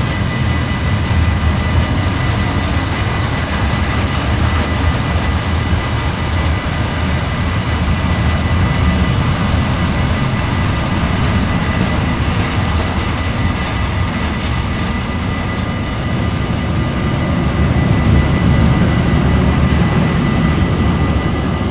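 Freight train of tank and sliding-wall wagons passing close by: a steady heavy rumble of steel wheels on the rails. A thin, steady high tone sits above it, and the rumble swells a little near the end.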